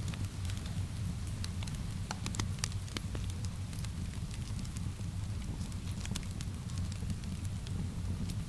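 Wood fire crackling, with irregular sharp pops and snaps over a steady low rumble, mixed with a soft, even rain.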